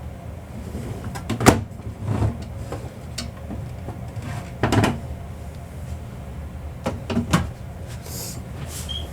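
Rummaging in a box of craft supplies: several sharp knocks and clacks of small bottles and containers being moved and picked up, with a brief hiss near the end.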